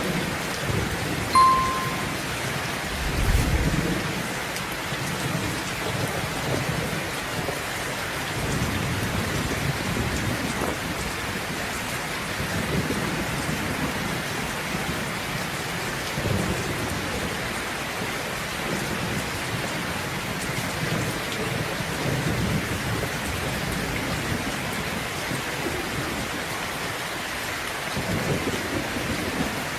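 Steady rain with thunder rumbling low and rolling in and out, the strongest rumble a few seconds in. A brief clear high tone sounds once about a second and a half in.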